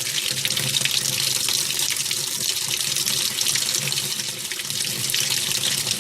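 Water running into a Universal 8 kg top-loading washing machine's drum through its inlet, filling the tub for a tub-cleaning cycle. It makes a steady hiss with a faint low hum beneath it.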